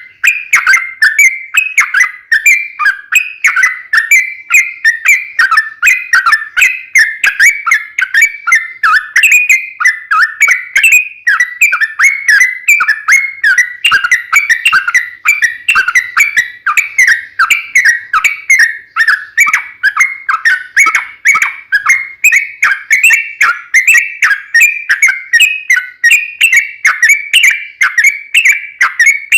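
Yellow-vented bulbul (trucukan) singing a long unbroken run of quick, repeated sliding notes, about three a second.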